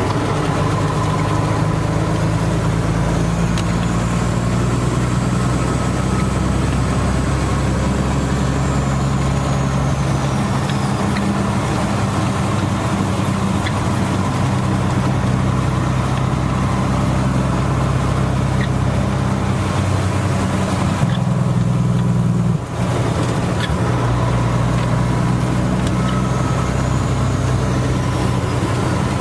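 A vehicle engine running steadily with a low hum under a constant hiss. The sound dips for a moment about 22 seconds in.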